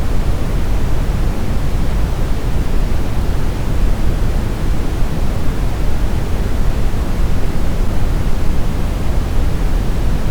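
Steady brown noise: an even, deep rumbling hiss, strongest in the low end, with no events or changes.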